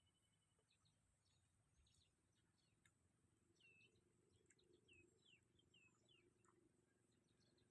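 Near silence, with faint bird chirps: a short run of quick, curved chirps about midway.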